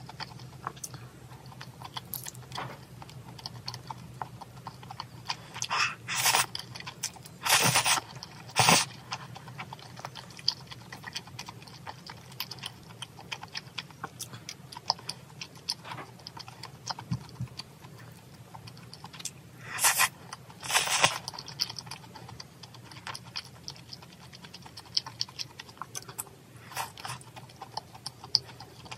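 Close-miked eating: a person chewing braised chicken and rice with small wet mouth clicks, with a few louder brief eating noises about 6 to 9 seconds in and again around 20 seconds in, over a faint steady low hum.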